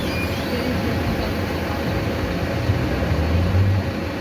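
Mercedes-Benz OF-1519 diesel city bus running along the road, its engine rumbling steadily under road and body noise. The engine note swells about two and a half seconds in, then eases near the end.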